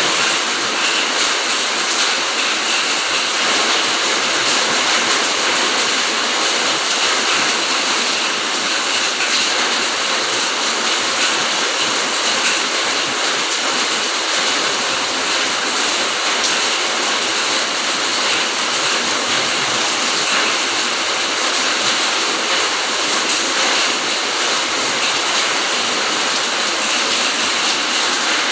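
Steady rain, an even hiss with no changes in strength.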